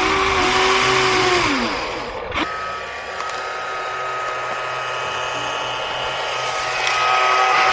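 Small electric motors of radio-controlled construction models whining. Over the first two seconds the pitch rises, holds and falls away; after a short break a steadier high whine runs on.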